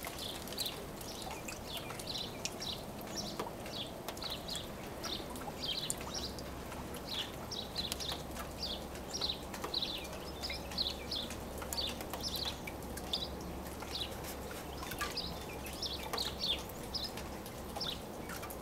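Small birds chirping repeatedly, short high chirps a few times a second, over faint outdoor hiss.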